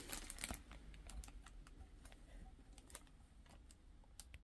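Near silence with faint, scattered light clicks of small items being handled, thinning out after the first second.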